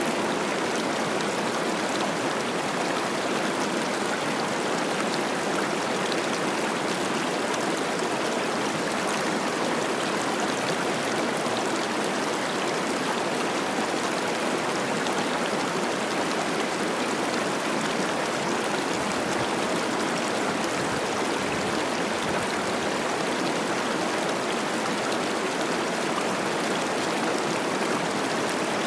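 Cache la Poudre River rushing and babbling over rocks, a steady, unbroken wash of moving water running high with spring snowmelt.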